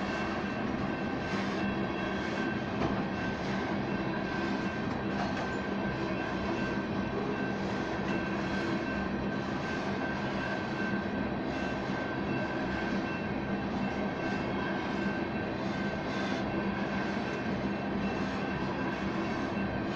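Union Pacific oil train of tank cars rolling steadily past, a continuous rumble and rattle of wheels on rail with faint irregular clacks.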